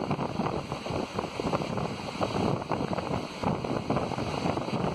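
Indian Railways passenger coach running at speed, its wheels rumbling and rattling over the track, with wind buffeting the microphone at the open coach doorway.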